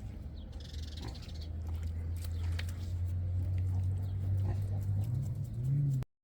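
Pig grunting in a long, low, steady drone that grows louder and rises slightly in pitch near the end, then cuts off suddenly.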